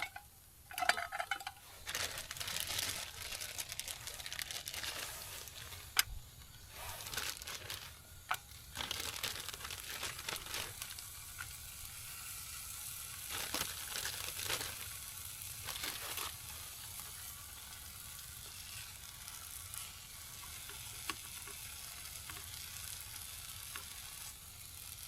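Bacon sizzling in a frying pan, a steady hiss that builds after the strips go in. There is a sharp click about six seconds in, and scraping and handling of the pan now and then as the strips are laid in and moved around.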